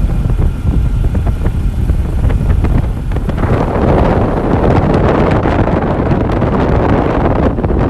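Moving vehicle running, with a low engine and road rumble and wind rushing on the microphone that grows much louder from about three and a half seconds in.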